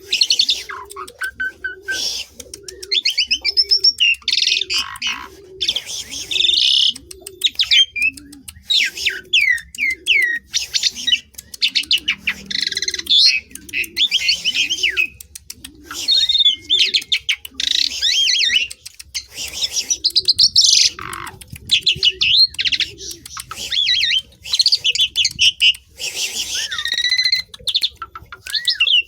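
Asian pied starling (jalak suren) singing a long, varied song of whistles, rising and falling notes and rapid clicks. Under it a low cooing note repeats about every two thirds of a second, stopping about two thirds of the way through.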